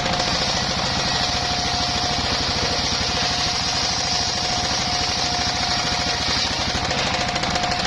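Mobile circular sawmill running, its engine putting out a steady rapid pulsing beat under a steady tone. The blade cuts through bayur wood with a high hiss that begins just after the start and stops about six and a half seconds in.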